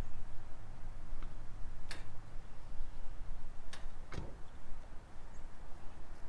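Handling noise: four separate sharp clicks and knocks, spread out over a few seconds, above a steady low rumble.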